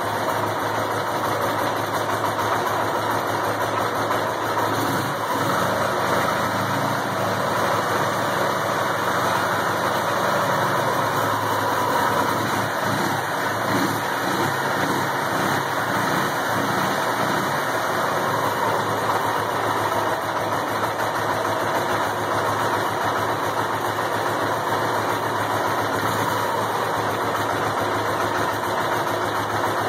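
Ural motorcycle's air-cooled opposed-twin engine running steadily.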